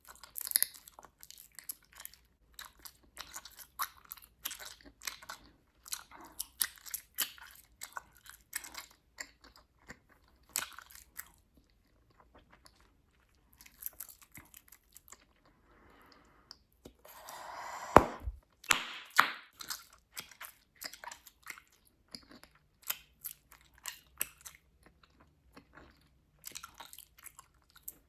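Bubblegum chewed close to the microphone, with many quick wet snaps and clicks. About two-thirds of the way through, a short breathy rush ends in one loud pop, and then the chewing and snapping go on.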